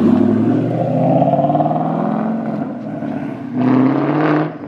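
Car engine revving as the car pulls away: one rise in pitch over the first two seconds, then a second, louder surge of revs near the end that cuts off sharply.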